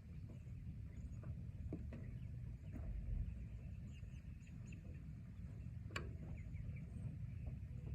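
Forest rain ambience: a low steady rumble with scattered taps of falling drops, the clearest about six seconds in, and faint short bird chirps high above.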